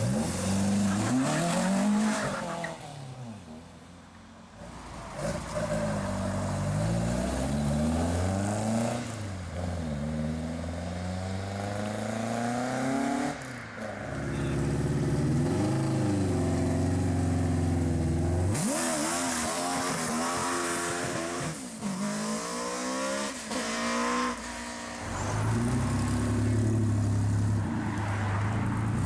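Classic Ford cars pulling away one after another, each engine revving up through the gears, so the engine note climbs and drops again and again.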